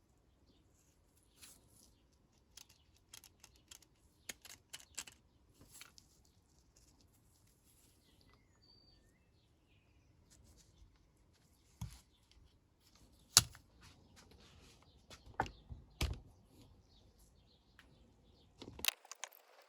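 Scattered small clicks and light metallic taps of carburettor parts and jets being handled and unscrewed by hand, with a few sharper knocks in the second half.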